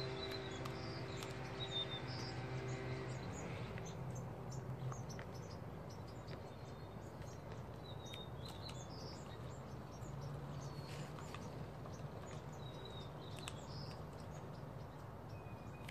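Faint small birds chirping in the background, over a low steady hum whose upper tones drop away about three seconds in, with a few faint clicks.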